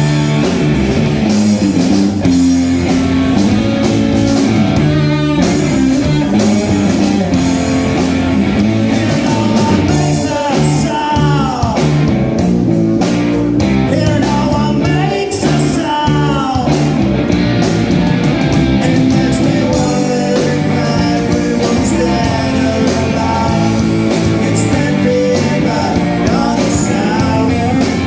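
Live rock band playing: electric guitar, bass guitar and drum kit, with singing. Gliding guitar notes in the middle.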